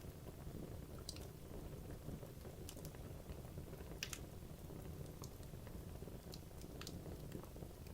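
Wood logs burning in a fireplace: a steady low rumble of the flames with sharp, irregular crackles and pops, the loudest about four seconds in.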